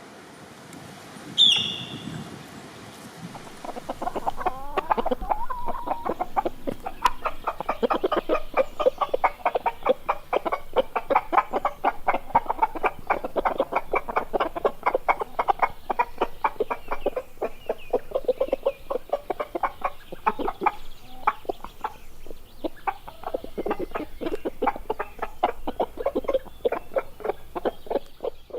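A flock of chickens clucking, with many short overlapping clucks in quick succession from about four seconds in. Before that comes a single sharp, high, falling call.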